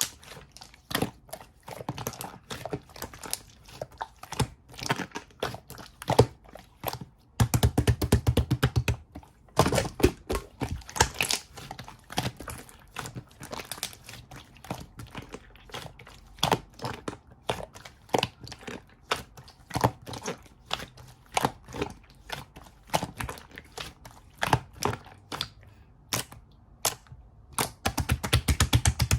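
Slime being squeezed, poked and stretched by hand, giving a string of sharp wet clicks, pops and crackles. Twice the clicks run together into a fast crackling stretch, about seven seconds in and again near the end.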